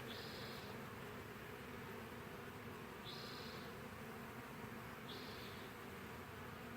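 Honeybees buzzing steadily around a freshly hived swarm, with a few brief high-pitched chirps about every two to three seconds.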